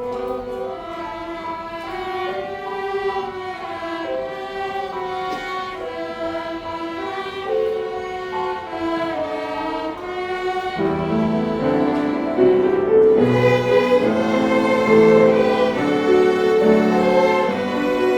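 String ensemble of violins and cellos playing a slow hymn melody with sustained bowed notes. About eleven seconds in, the lower strings come in and the playing grows louder and fuller.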